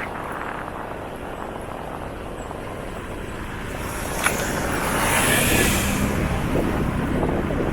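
Ride-along sound from a moving motorcycle: steady engine and road noise. A single sharp click comes about four seconds in, followed by a rushing swell that stays louder to the end.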